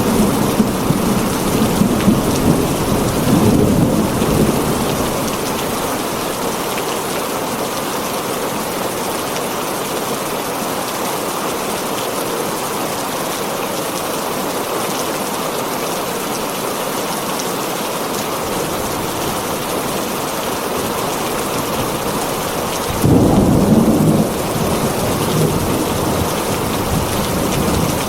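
Heavy rain drumming steadily on a tin roof, with thunder rumbling low in the first few seconds and a sudden, louder burst of thunder lasting about a second, a little over twenty seconds in.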